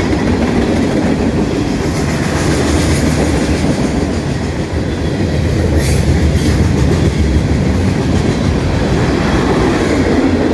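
Norfolk Southern freight train rolling past, a steady loud noise of steel wheels running on the rails.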